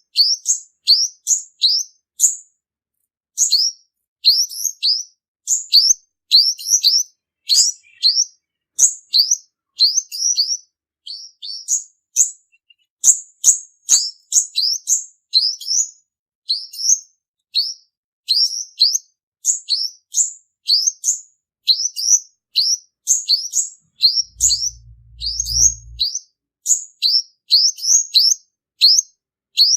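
Purple-throated sunbird singing: a continuous run of rapid, high, thin chirps, each a quick downward sweep, packed into fast trills. A brief low hum comes in underneath about three-quarters of the way through.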